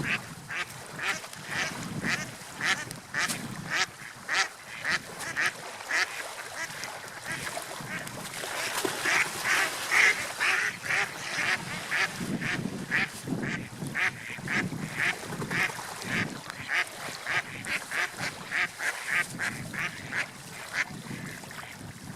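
Gulls calling over and over in a rapid series of short cries, about two to three a second, loudest around the middle.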